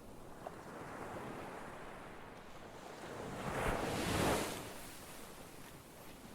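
Ocean waves breaking on a shore, a steady wash of surf with one wave swelling and crashing about four seconds in, then running back.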